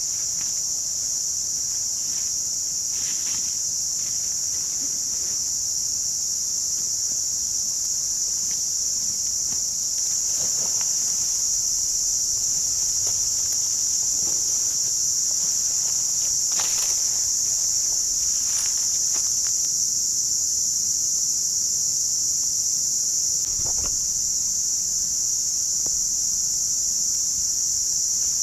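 A steady, high-pitched chorus of insects shrilling, with a few faint taps and rustles scattered through it.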